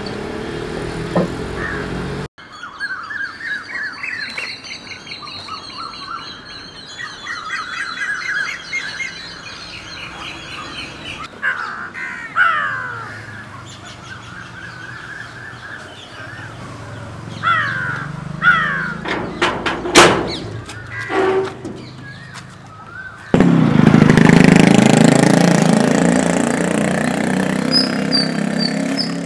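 Birds singing and calling: many short, repeated chirping notes that sweep up and down, with a few sharp clicks. About 23 seconds in, a loud steady rushing noise starts suddenly and covers the birds.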